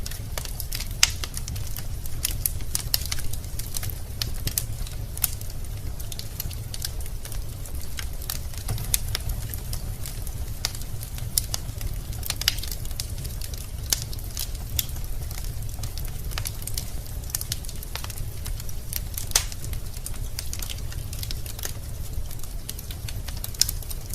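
Wood fire burning in a fireplace: irregular crackles and pops of burning logs over a steady low rumble.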